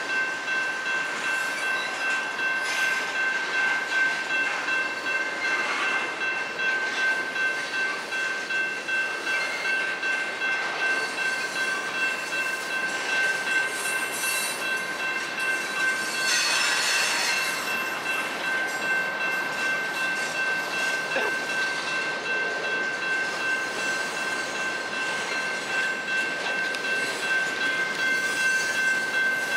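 Freight cars of a long manifest train rolling steadily past, wheels running on the rails, with a steady high-pitched ringing from the grade-crossing signal bell. A brief louder hiss comes about sixteen seconds in.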